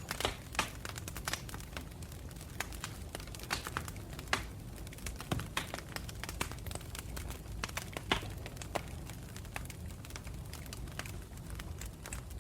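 Campfire burning with irregular crackles and pops over a low steady rumble, a sharper pop near the start and another at about eight seconds.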